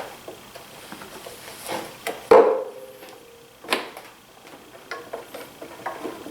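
Metal parts and tools being handled on a workbench: scattered light clicks and knocks, with one sharp metallic clink a little over two seconds in that rings briefly, and another knock about a second later.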